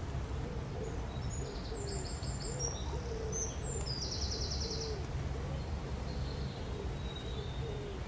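Wild birds calling by the river: a low call rising and falling, repeated about twice a second, and in the first half a small bird's short high phrase ending in a fast trill. A steady low rumble runs underneath.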